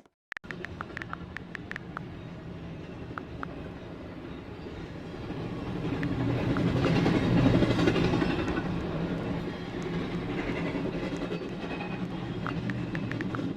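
A train passing: a steady rumble with scattered clicks from the rails, swelling to its loudest about halfway through and then easing off.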